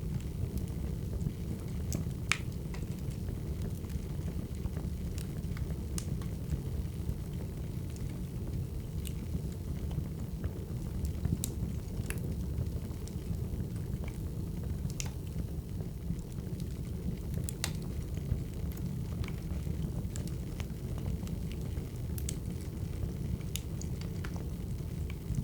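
Crackling wood fire: a steady low rumble of burning logs with sharp, irregular pops and snaps every second or two.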